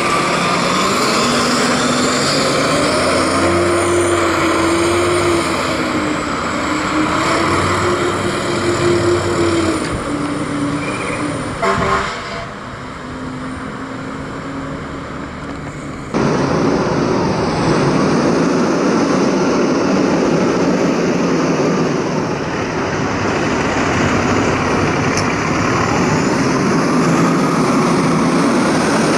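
Fire trucks on the road, engines running, with a low tone that rises and wavers through the first ten seconds. The sound drops off suddenly about twelve seconds in and comes back loud about four seconds later.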